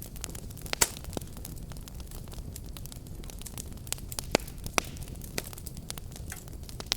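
Wood fire burning with a steady low rumble and irregular sharp crackles and pops, the loudest pop a little under a second in.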